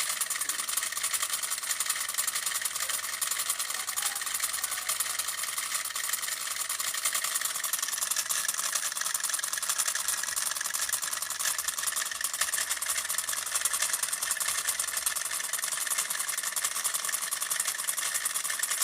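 Small motor of a miniature model engine running steadily, with a fast, even ticking.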